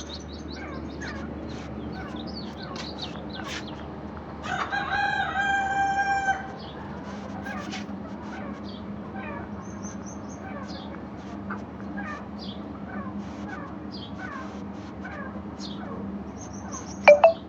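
A rooster crowing once, a held call of about two seconds starting about four seconds in, over continual chirping of small birds. A short, loud, steeply falling call comes near the end.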